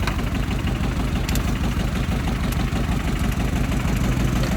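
Kubota tractor's diesel engine running steadily at a low, even pace.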